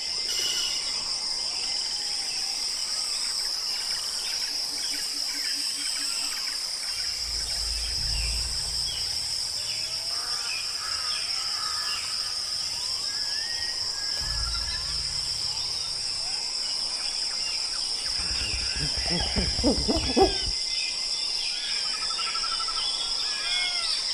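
Wild-animal soundscape: a steady high insect drone under scattered short bird chirps, with two deep, low hoots of about two seconds each, several seconds apart. Near the end comes a brief rough, louder burst.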